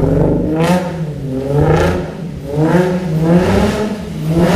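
Infiniti G35's 3.5-litre V6 revved up and let fall back about four times in quick succession while the car does donuts, with tyre noise swelling at each rise in revs.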